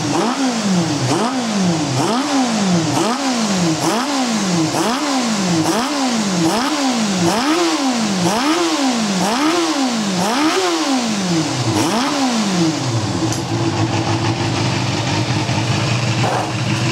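The engine of a Feather 250 is revved in repeated quick throttle blips, a little more than one a second, each rising and falling in pitch. About thirteen seconds in the blipping stops and the engine settles to a steady idle.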